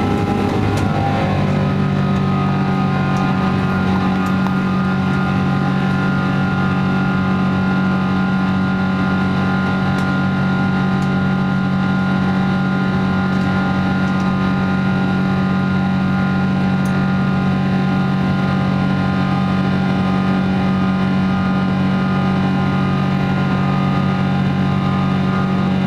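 Jet engine noise inside the cabin of a Boeing 777-200ER: a loud, steady drone of the Rolls-Royce Trent engines with several steady humming tones. The tones shift about a second in and then hold constant.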